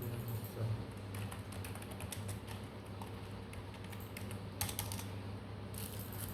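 Rapid, irregular key clicks like typing, with two denser flurries near the end, over a steady low hum.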